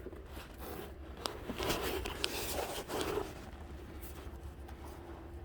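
Faint scrapes and light clicks of hand work on engine parts, mostly in the first three seconds, over a faint steady hum.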